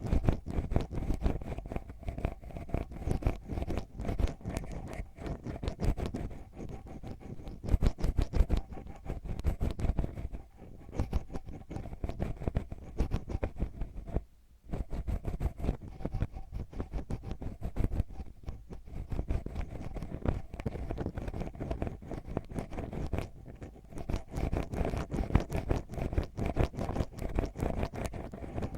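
Ear pick scratching and digging right against an ASMR microphone's ear: dense, fast, close-up scratching strokes, with a brief pause about halfway through.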